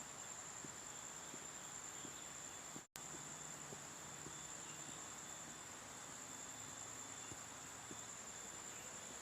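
Faint, steady high-pitched insect trilling, with a weaker second trill lower down. It cuts out for an instant about three seconds in.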